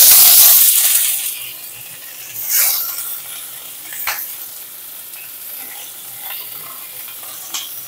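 Parboiled, drained cauliflower florets going into hot mustard oil in a pan. A loud burst of sizzling dies down over about a second and a half into a steady frying sizzle, with a few clicks of a utensil against the pan as they are stirred.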